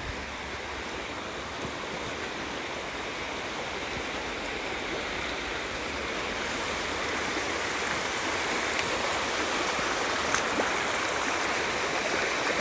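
River water rushing in a steady, even wash that grows gradually louder.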